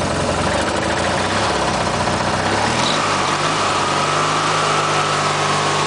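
1991 MTD 18-horsepower lawn tractor engine running; about two and a half seconds in it speeds up from a low idle, its pitch rising over a second or so, then holds steady at the higher speed with a faint whine above it.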